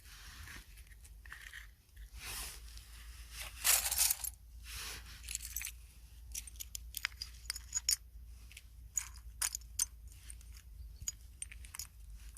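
Close handling of small objects: a few rustling swells in the first seconds, then a run of quick light clicks and taps.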